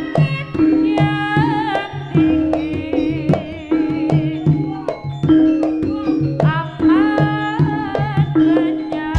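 Live jaranan music, as played for the Javanese horse dance: hand drums and a steady, repeating pattern of low pitched percussion strokes under a high, ornamented melody that bends and wavers in pitch.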